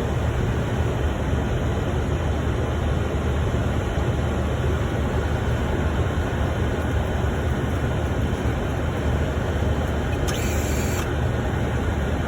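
Steady flight-deck noise of a Boeing 747-400 in flight on approach: a constant low rumble with no change in level, and a brief hiss a little over ten seconds in.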